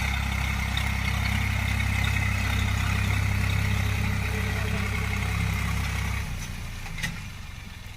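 Tractor engine running steadily, its low, even hum cutting out about six seconds in, followed by a single sharp click about a second later.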